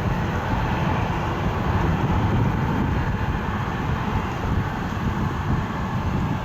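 Jet airliner engines making a steady, even rumble with no distinct tones or impacts.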